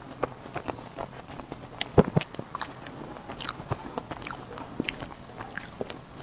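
Close-miked eating sounds of strawberry cake being bitten and chewed: a run of short, sharp wet mouth clicks, with one louder thump about two seconds in.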